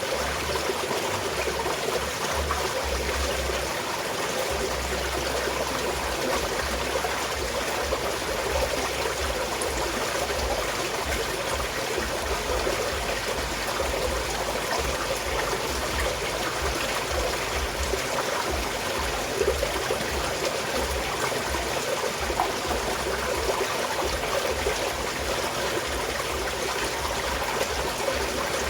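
A small mountain stream flowing and trickling steadily.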